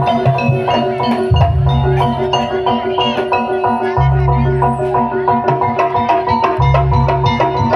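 Javanese jaranan accompaniment music: a percussion ensemble of tuned gong-chimes or metallophones hammering a fast, even repeating pattern, with drums and deep low tones that swell and drop away every couple of seconds.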